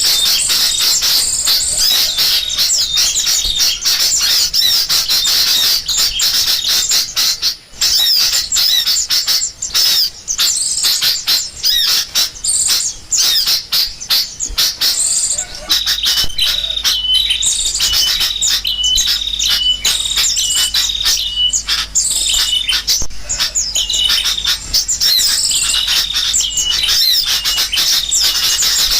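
A dense chorus of sooty-headed bulbuls (kutilang) mixed with assorted small birds, many chirping and trilling at once, as in a recorded bird-lure call. From about halfway through, a short stepped call repeats about once a second over the chatter.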